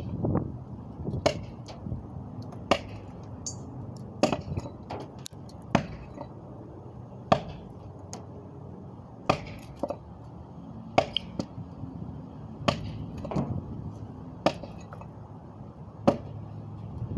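Sharp knocks or clacks at irregular intervals, about one every second or two, over a steady low background noise.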